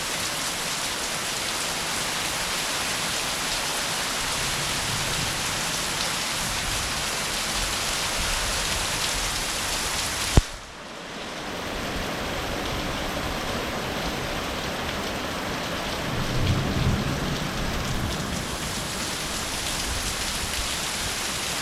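Heavy rain pouring steadily during a thunderstorm, with a low rumble of thunder about three-quarters of the way through. A single sharp click near the middle, after which the rain sound briefly drops and then builds back.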